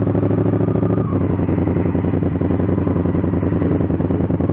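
2019 Honda Africa Twin CRF1000L's parallel-twin engine running steadily while riding, with a brief dip about a second in.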